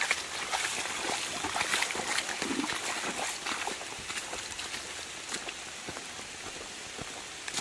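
Water trickling and pattering, with many small drips and ticks, louder in the first few seconds.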